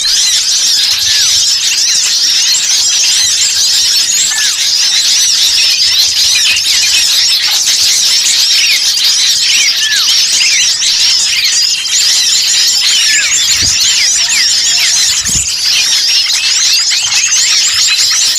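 Dense, continuous chattering of many small songbirds, rapid high chirps overlapping without pause: a bird-lure recording of agitated small birds played to draw wild birds in. Two short low thumps sound about three-quarters of the way through.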